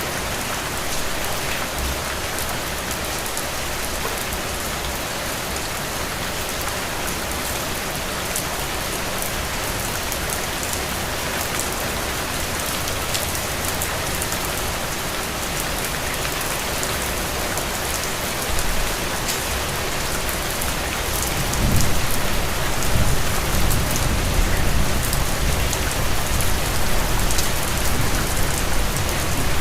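Steady rain falling on a surface, an even hiss with fine drop ticks. From about two-thirds of the way in a low rumble swells beneath it and the sound grows louder.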